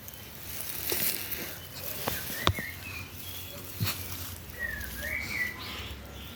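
Birds chirping outdoors: scattered short chirps and down-slurred calls, with a few sharp clicks or knocks, the loudest about halfway through.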